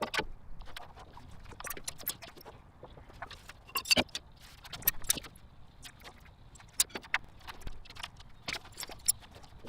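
Irregular metallic clinks, clicks and knocks of hand tools and parts during work on a car engine, scattered unevenly, the loudest a few seconds in.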